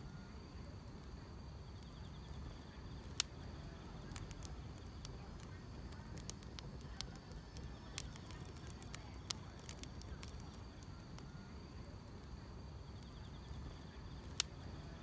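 Wood fire crackling, with a few sharp single pops, the loudest a little after three seconds and near the end, over a faint steady chirping of field insects.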